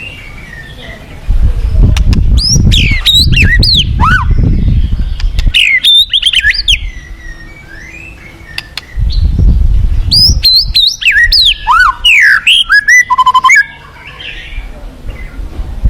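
White-rumped shama (murai batu) singing two loud bursts of varied whistled phrases with fast sweeping notes, the second ending in a rapid trill. A low rumble runs under each burst, and rushing river water can be heard faintly in between.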